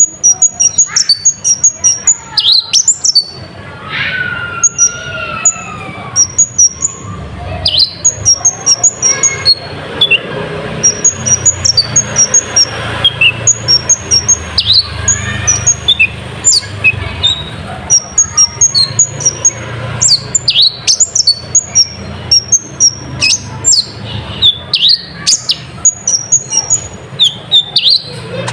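Kolibri ninja sunbird singing: a fast, continuous string of high, sharp chirps and twittering sweeps, with a few lower gliding notes among them, over a steady low hum.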